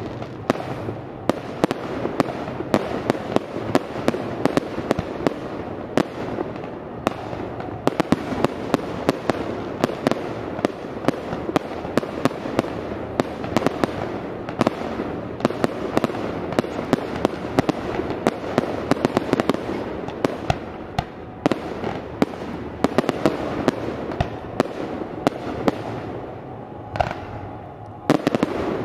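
Aerial fireworks display: shells bursting in a dense, irregular barrage of sharp bangs, several a second, over a continuous crackling rumble.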